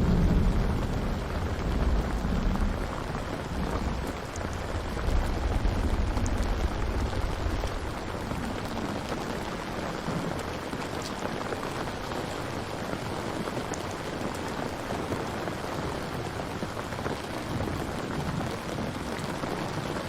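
Steady rain falling, with low thunder rumbling over the first several seconds before it fades into the rain.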